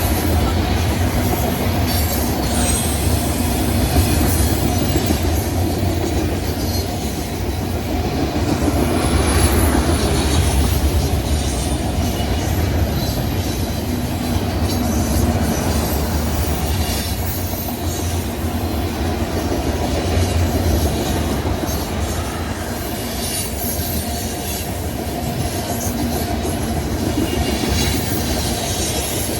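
CSX freight train rolling past: a steady, loud rumble of railroad cars with wheels clicking over the rail joints and a thin, high wheel squeal now and then.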